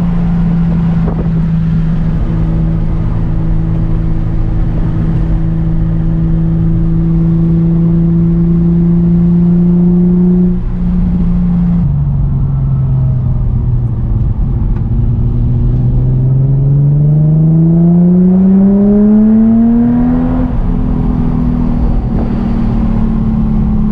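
Nissan 350Z's VQ V6 running through a Tomei titanium single-exit exhaust while being driven, a steady engine note rising slowly, then dropping in pitch just before halfway as with an upshift. It then climbs smoothly through the revs for about five seconds before levelling off near the end.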